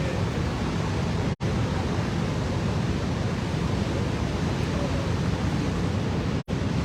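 Steady rushing roar of a large waterfall, even and unbroken, cutting out abruptly for an instant twice.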